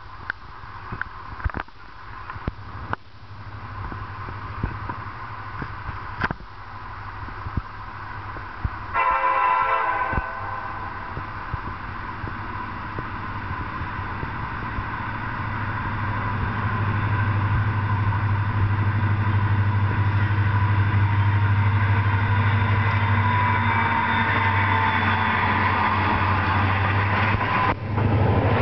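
CSX freight train led by an EMD GP40-2 diesel locomotive approaching and passing. It gives one short horn blast about a third of the way in. Then the locomotive's low diesel drone and the rumble of the train grow steadily louder as it draws level and the freight cars roll past.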